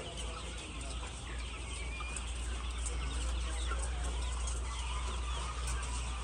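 Flock of laying hens in a poultry house clucking and calling over one another, many short overlapping calls, over a steady low hum.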